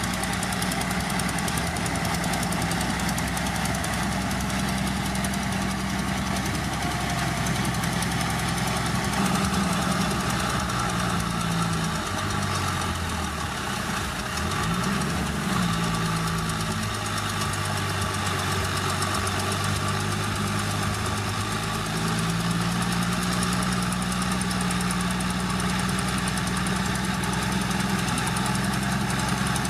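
Heavy earthmoving machine's diesel engine running steadily under load. It dips in pitch about twelve seconds in, rises again a few seconds later, and settles back to a steady pitch.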